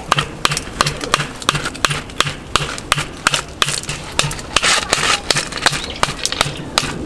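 Rapid, evenly paced knocking on wood, about three sharp knocks a second.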